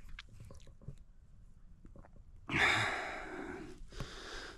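A man's long, breathy exhale about two and a half seconds in, blowing out a draw from a vape; it starts loud and fades away.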